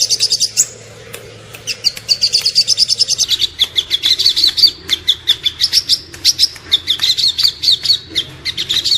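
Small songbird singing rapid runs of sharp, high repeated notes, about nine a second, the fast 'tembakan' type of phrase used as tutor song for cage songbirds. The song breaks off about a second in and then continues in long fast runs.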